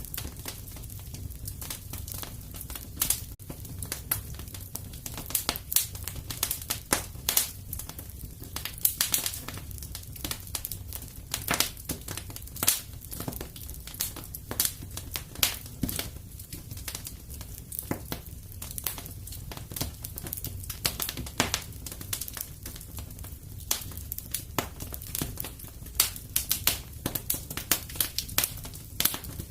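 Wood fire burning in a fireplace: irregular sharp crackles and pops, several a second and uneven in strength, over a steady low rumble of the flames.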